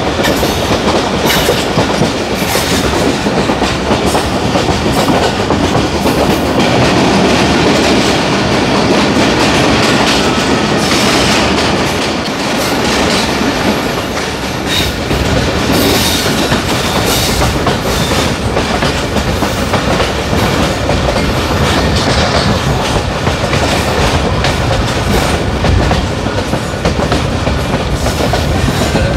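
Passenger train coaches running at speed, heard from on board: a steady rumble with the wheels clicking over rail joints.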